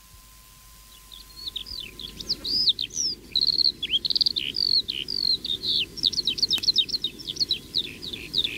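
Birdsong: quick, high twittering chirps that start about a second in and keep going without pause.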